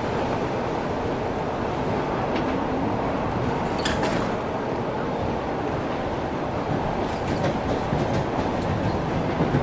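Steady rumble of a moving suburban electric train heard from inside the carriage, with a sharp click about four seconds in and a few lighter clicks later.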